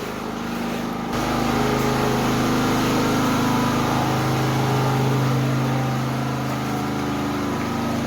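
Engine running steadily with a low, even hum, growing louder about a second in and then holding.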